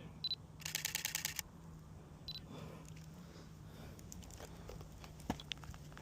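A camera taking a burst of photos: a short high beep, then a rapid run of about ten shutter clicks lasting under a second, then another short high beep about two seconds in.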